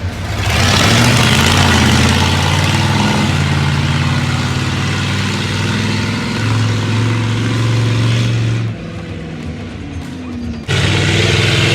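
Monster truck engine running loud under throttle, easing off about nine seconds in and surging back up about two seconds later.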